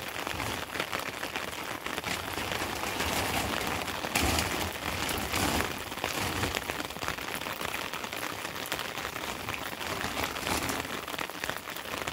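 Steady rain falling, with many separate drops hitting close by, heavier for a couple of seconds around four seconds in.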